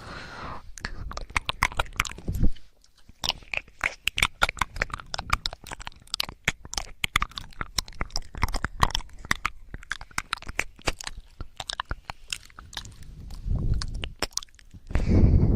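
Close-miked wet clicking and crackling, many irregular clicks in quick succession, with a couple of muffled low rumbles near the end.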